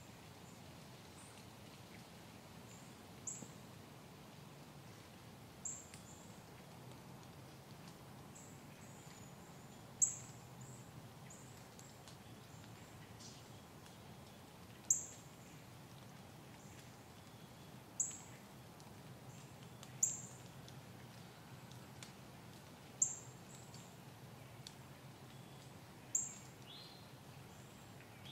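A small bird's sharp, high chip calls, one at a time, every two to five seconds, louder from about a third of the way in. A faint steady woodland background lies under them.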